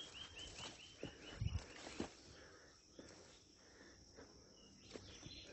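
A bird sings a rapid run of short clear notes, each a little lower than the last, that ends about a second and a half in. Footsteps thump and crackle on the forest trail, with a faint steady insect buzz underneath.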